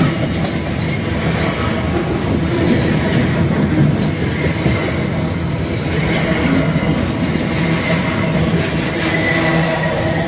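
Freight train of flatcars rolling past close by, its steel wheels running on the rails in a steady loud rumble. A faint high wheel squeal runs under it in the second half.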